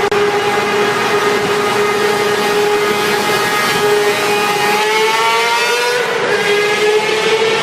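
Sport motorcycle engine held at high revs, a loud steady high-pitched note that climbs slowly, dips briefly about six seconds in, then climbs again.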